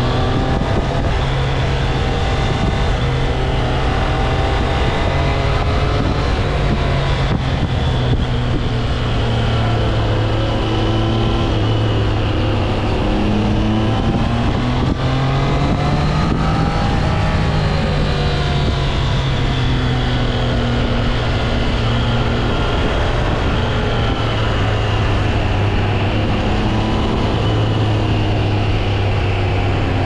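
Triumph Trident 660's inline three-cylinder engine running on the move. Its pitch rises and falls repeatedly with throttle and gear changes, climbing to a peak a little past the middle and then dropping away.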